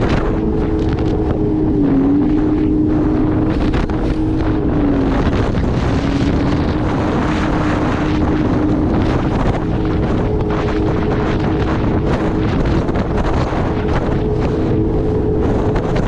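Jet ski engine running steadily at speed, its pitch dipping briefly about two seconds in and again around five seconds, with heavy wind noise on the microphone.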